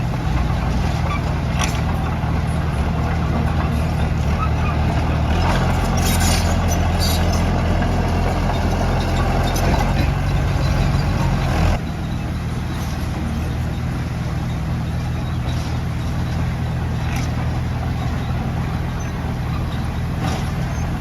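Heavy diesel engine of earthmoving machinery running steadily, with a few sharp metallic clanks. The engine works harder from about five seconds in, then drops back suddenly a little past halfway.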